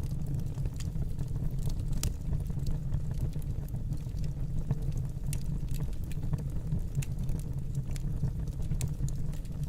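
Wood fire burning in a fireplace: a steady low rumble of the flames with frequent irregular crackles and pops from the burning wood.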